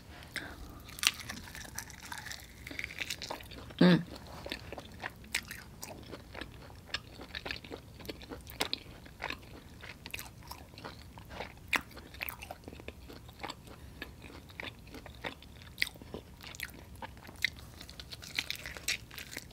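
Close-miked eating of sauced chicken wings: wet chewing, lip smacks and small crunching clicks, several a second, with a brief hummed voice sound about four seconds in.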